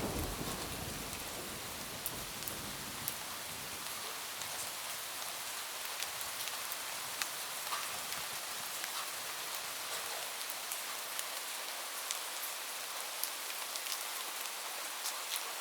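Steady rain falling, an even hiss with many single drops ticking, on a roof. A low thunder rumble dies away in the first second or two.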